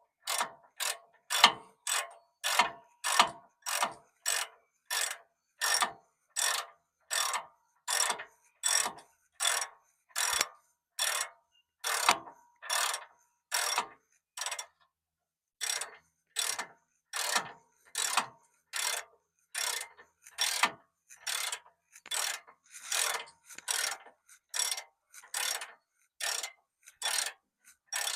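Hand socket ratchet turning a bolt in steady back-and-forth strokes, each stroke a short burst of ratchet clicks, about one and a half a second, with a brief pause about halfway through.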